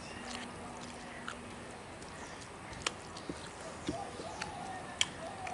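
Someone eating rice by hand and chewing, with sharp wet mouth clicks and lip smacks, the loudest about three and five seconds in.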